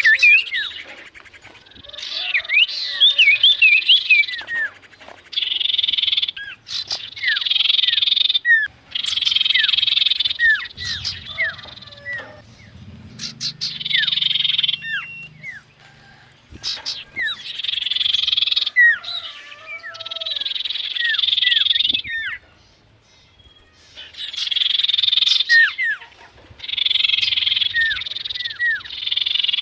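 Iora (cipoh) calling: short down-slurred whistles mixed with dry buzzing trills that come in bursts of a second or two, about every two to three seconds.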